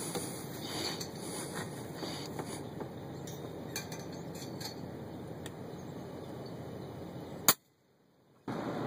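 Steady outdoor background noise with faint ticks and clinks, broken by one very sharp crack about seven and a half seconds in and another right at the end.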